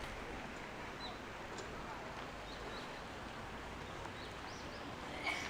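Outdoor park ambience: a steady background wash with a few short, high bird chirps scattered through it, and a brief sharp click near the end.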